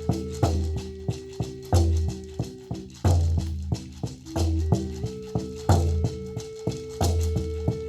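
Triple Native American pentatonic flute in E-flat playing long held notes that step slowly between pitches, over a Lakota hand drum struck about once a second with a deep boom. A maracá rattles in rhythm between the drum strokes.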